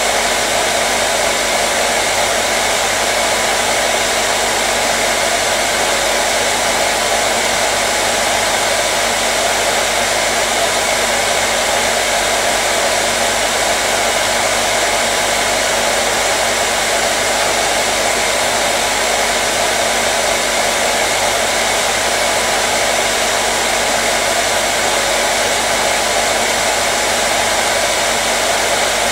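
Electric hair dryer running continuously: a steady, loud whoosh of blown air over its motor hum, with no change in speed.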